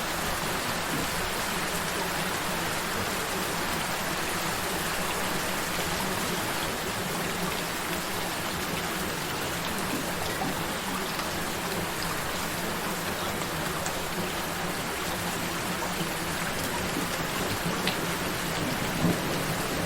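Gentle rain falling steadily, with a few sharper drop ticks near the end, over a steady low hum.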